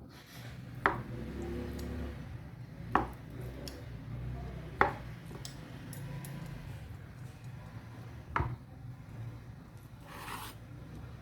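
Cutlery clicking against a plate during a meal, four sharp clicks spaced a couple of seconds apart, with a brief rustle near the end.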